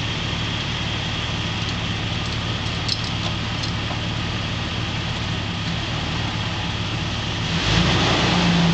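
SUV engine idling steadily, with a few light clinks a couple of seconds in. Near the end the engine gets louder, revving up.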